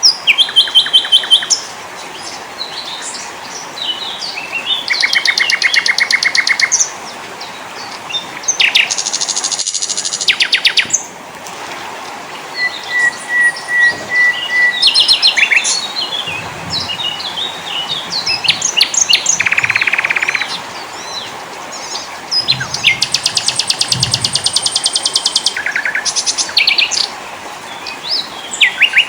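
Several small songbirds calling and singing in a mix, with repeated fast trills of rapid identical notes, short chips and whistles, and one steady high whistled note in the middle, over a faint steady background hiss.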